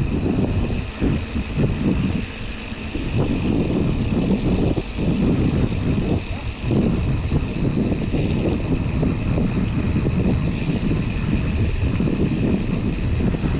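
Wind buffeting the action-camera microphone on a moving mountain bike, a loud, ragged low rumble with tyre and trail noise under it.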